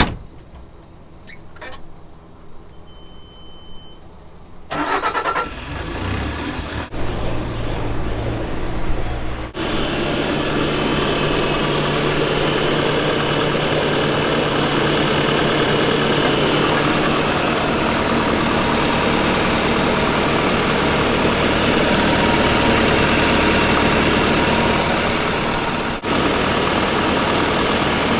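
A short electronic beep, then a Bobcat skid loader's diesel engine cranking, catching about seven seconds in and settling into a loud, steady run at higher speed.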